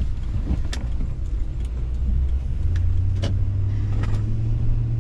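Car engine and road noise heard from inside the cabin while driving. The engine's low drone steps up in pitch about two and a half seconds in as the car speeds up, with a few brief sharp ticks scattered through.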